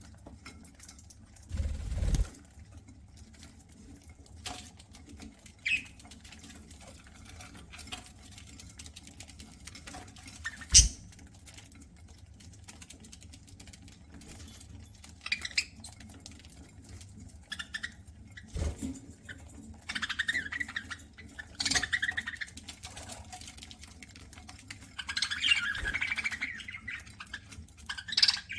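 Budgerigars cracking and husking seeds: a steady scatter of small clicks, with one sharper knock about eleven seconds in. Bursts of budgie chirping and chatter come in over the clicking, several times in the second half.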